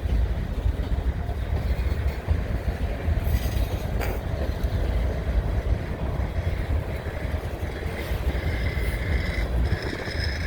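Freight train cars rolling past on the rails with a steady low rumble. About eight seconds in, a high squealing tone joins it from one car's wheel, which the onlooker takes for a bad wheel bearing.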